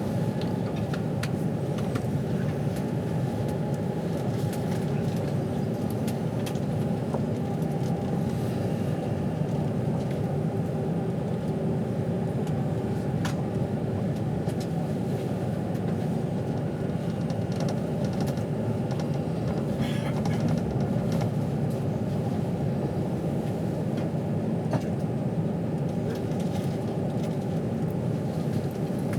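Steady rumble of a moving passenger train heard from inside the carriage, with a faint constant hum and occasional light clicks.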